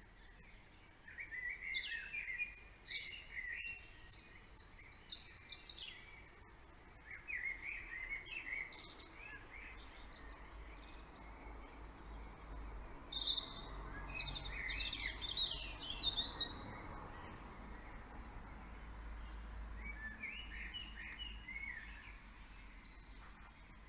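Songbirds singing a morning chorus: several bursts of quick, twittering chirps, with short pauses between them. A low background rumble underneath grows louder in the middle and fades again.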